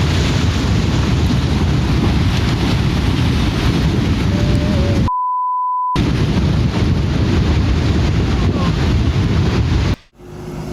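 Loud, continuous rushing noise, with a single steady beep tone of just under a second replacing it about halfway through, like a censor bleep. It cuts off abruptly near the end.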